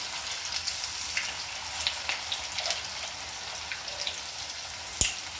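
Rice-and-potato tikkis shallow-frying in hot oil in a pan: a steady sizzle with scattered small crackling pops. One sharp tap is heard near the end.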